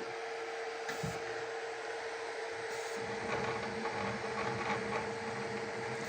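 Flsun Super Racer delta 3D printer running as a print begins: a steady fan hum with its stepper motors whirring and ticking, busier from about halfway, and a single thump about a second in.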